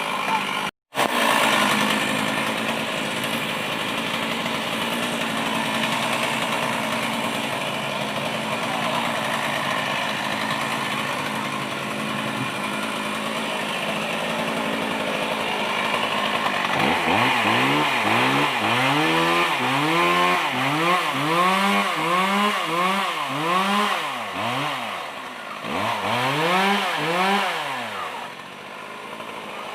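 Chainsaw cutting a fallen mango tree: the saw runs steadily at high speed under load, cut off for an instant about a second in. From about halfway it is revved up and let drop back over and over, roughly once a second.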